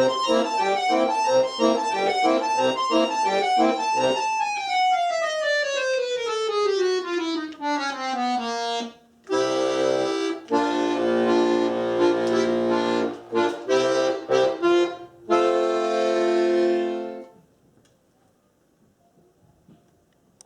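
Accordion playing the ending of a Russian chastushka arrangement. Quick figures lead into a long falling run from about four to nine seconds in, then a series of loud chords and a final held chord that stops about seventeen seconds in, leaving near silence.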